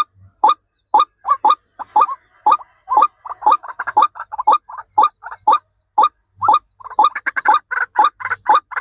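Birds calling in short, loud, repeated notes, about two a second, growing denser and overlapping from about seven seconds in as more calls join.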